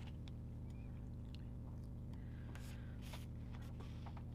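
Faint handling of sticker sheets and planner paper: small clicks and rustles as stickers are peeled and pressed on, over a steady low hum.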